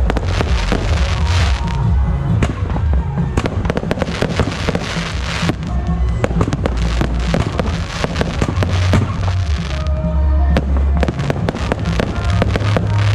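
Aerial firework shells bursting in the sky, a dense run of sharp cracks and bangs with crackling, over a steady low rumble. Music plays underneath and comes through more clearly near the end, when the bursts thin out.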